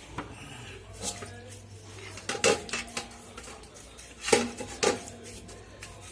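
Metal parts and tools clinking and clanking against each other, several sharp strikes that ring briefly, as compressor parts are handled during an overhaul. A faint steady low hum runs underneath.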